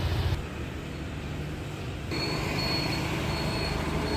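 Low, steady rumble like a running vehicle, with a thin high whine joining about two seconds in.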